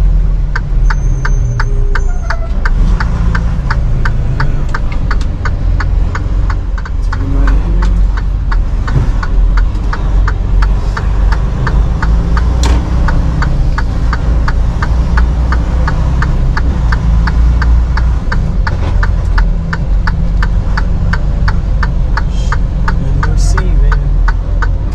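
Inside a semi-truck cab while driving: steady low engine and road rumble, with a regular ticking about three times a second.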